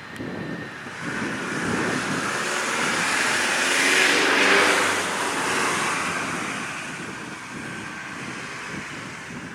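Jet engines of a Fokker 100 airliner passing close by: a rushing roar that swells to its loudest about four to five seconds in and then fades away.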